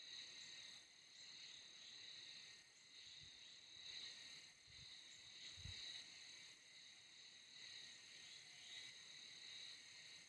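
Faint, steady high-pitched chorus of insects chirring, swelling and fading slightly. A few soft low thumps come near the middle.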